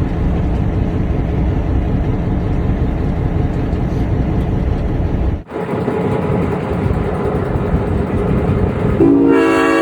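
EMD diesel locomotive's engine running under load, cut off suddenly about halfway through and then picking up again. Near the end the locomotive's air horn blows a loud, steady chord.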